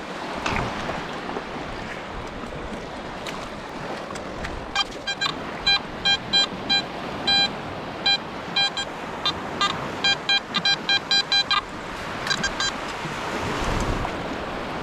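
A metal detector or pinpointer giving a run of short beeps, all at the same pitch and unevenly spaced, over a steady rushing background of wind or surf.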